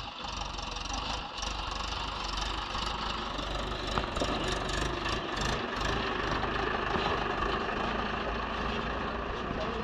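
A car's engine running steadily, with the even rumble of the vehicle in motion.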